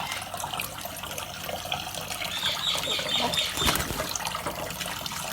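Tap water running and splashing into a sink where Indian ringneck parrots are bathing. A little past the middle there is a quick run of about six short high chirps, followed shortly by a single sharp splash or knock.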